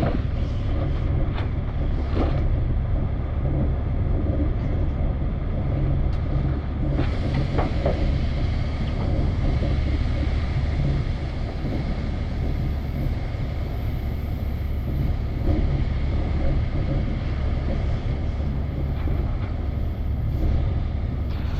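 Wind buffeting the microphone in a snowstorm: a steady, loud low rumble with a rushing haze above it.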